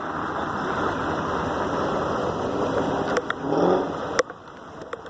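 Steady engine and road noise of a motor vehicle, which cuts off suddenly about four seconds in. A few faint clicks and a distant voice can be heard behind it.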